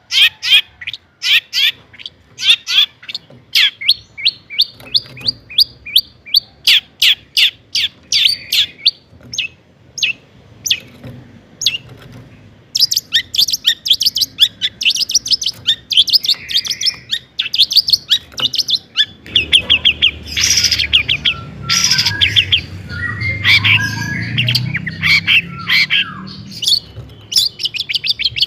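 Long-tailed shrike (cendet) singing: long runs of sharp, rapidly repeated high notes, several a second, pausing briefly partway through. In the second half the notes turn more varied and complex, and a low rumble comes in underneath.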